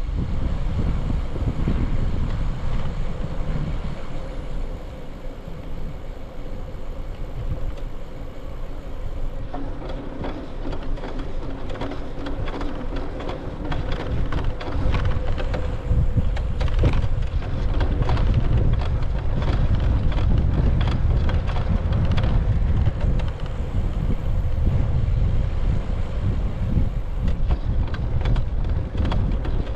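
Wind rumbling on the microphone of a camera riding on a moving bicycle, with the bike rattling and clicking over the path, the rattles thicker from about a third of the way in.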